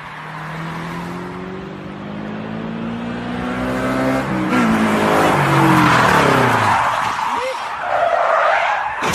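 A car's engine revving hard, its pitch climbing for about four seconds and then falling away as a loud rush of tyre skidding and squealing takes over.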